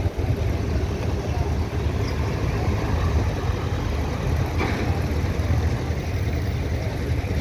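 Heavy vehicle engine running with a steady low rumble, as vehicles are loaded and unloaded. A brief higher sound stands out a little after halfway.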